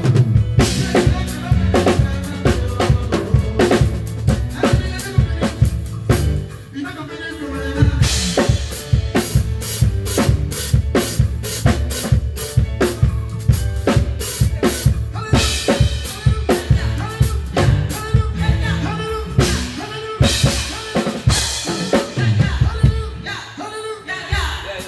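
Live band playing with a drum kit to the fore: kick drum, snare hits and rimshots, and cymbals, over sustained low instrument notes. The playing dies away near the end.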